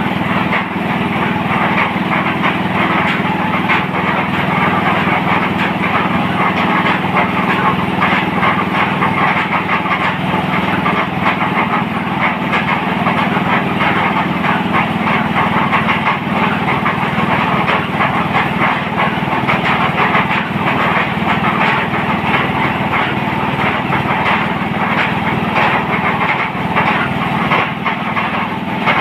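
Engine of a motorised well-drilling machine running steadily.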